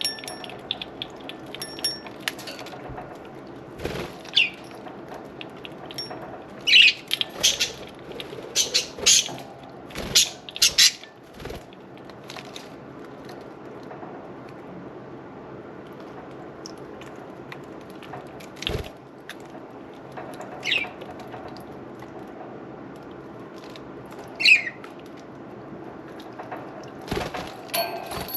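Budgerigars giving short, sharp chirps and squeaks, thickest in a cluster a few seconds in and sparser later, with some wing-flapping while they bathe, over a steady low background.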